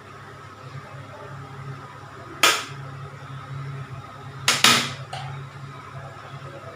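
Sharp knocks of kitchen utensils against cookware as ghee goes into a pot: one knock about two and a half seconds in, then two in quick succession about two seconds later, over a steady low hum.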